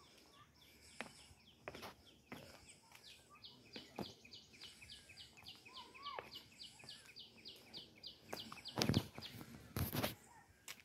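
A bird calling a fast, even series of high chirps, about six a second, for around five seconds, with a short whistled note in the middle. Footsteps scuff on a stone path now and then, the loudest near the end.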